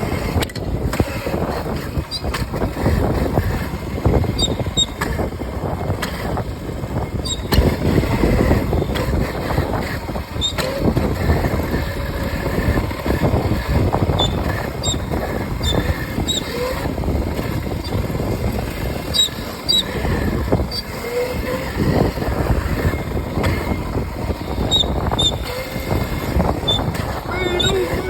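A small Razor electric dirt bike being ridden: continuous rumbling wind and ride noise with frequent knocks and rattles from bumps.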